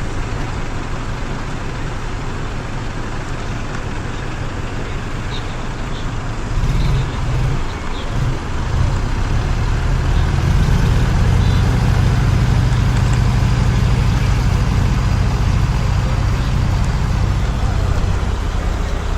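Tractor diesel engine running with a steady low rumble that grows louder about halfway through and stays loud until near the end.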